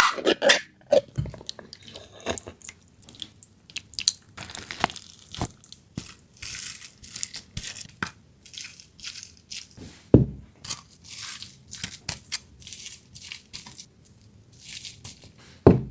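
Kitchen food-preparation sounds: a run of irregular small crunches, tearing and clicks as ingredients are handled, with a sharper knock about ten seconds in and another near the end.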